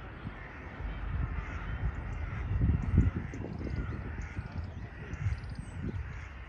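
Crows cawing repeatedly, over a steady low rumble with irregular low thumps.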